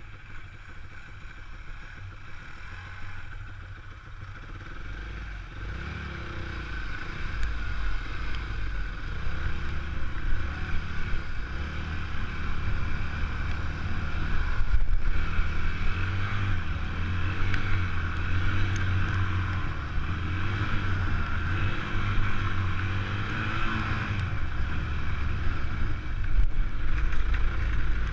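Enduro motorcycle engine running while riding, its pitch wavering with the throttle. It gets louder over the first half.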